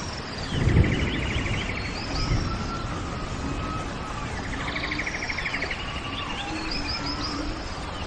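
Several songbirds singing over steady background noise: a fast rattling trill comes twice, with clear whistled slurs and gliding notes around it. A brief low rumble just under a second in is the loudest sound.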